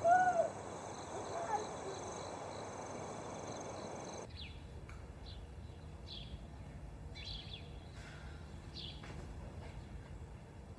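A shout trails off at the start, followed by a few seconds of noisy background. Then, after an abrupt cut, small birds chirp: short high chirps about once a second over a low, steady hum.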